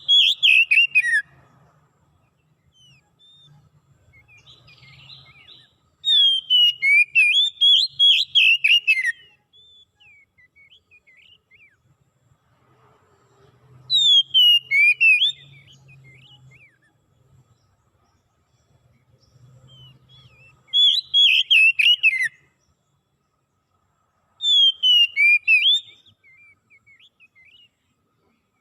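A songbird singing in loud phrases of rapid, falling whistled notes, each phrase one to three seconds long, five of them a few seconds apart, with soft twittering between.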